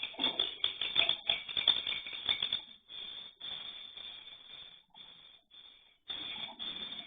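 Swiftlet chicks calling with rapid, rattling chirps, dense and loudest for the first few seconds, then in shorter spells with brief gaps.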